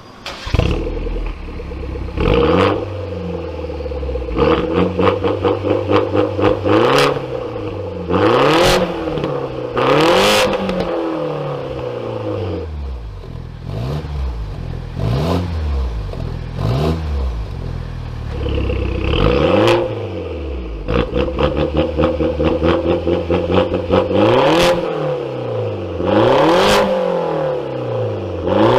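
Exhaust of a BMW F10 5 Series with its engine revved in repeated blips from idle, the pitch rising and falling each time, with crackles and pops as the revs drop.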